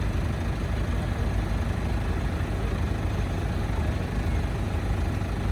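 Heavy diesel machinery running steadily, its sound mostly low-pitched and unchanging.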